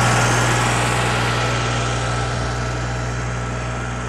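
Engine running steadily with a low, even drone, slowly growing fainter.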